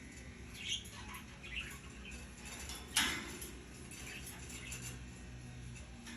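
A parrot preening: faint soft clicking and nibbling sounds, with a couple of small squeaks in the first two seconds and one sharper click about three seconds in.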